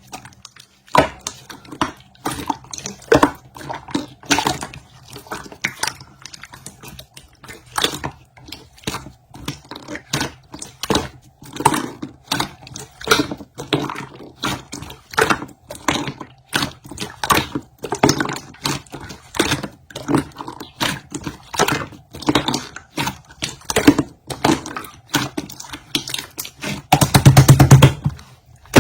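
Slime being squeezed and pressed by hand: irregular wet clicks, pops and squelches, several a second. Near the end comes a longer, low buzzing squelch, the loudest moment.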